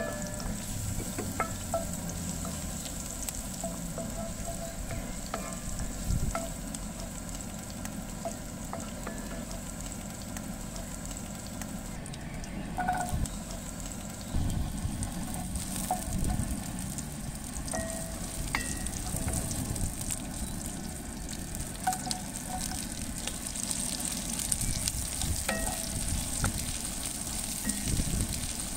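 Oil sizzling in a cast-iron pot as garlic, rosemary and then sliced carrots and zucchini fry in it, with a wooden spoon stirring and scraping against the pot. The steady sizzle is broken by scattered clicks and a few louder knocks as the vegetables go in.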